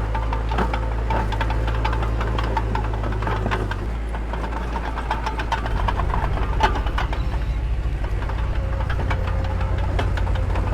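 Diesel engine of heavy construction machinery running, with scattered metallic clanks and rattles. The engine note changes about four seconds in, and from about six seconds in it settles into a fast, even throb.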